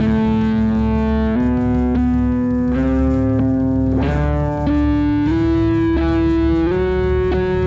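Electric guitar played through a JHS Berkeley fuzz pedal (a single-741-op-amp Seamoon Fresh Fuzz clone): a line of sustained single notes, each held for about a second, climbing overall in pitch. The last note is held with a little vibrato.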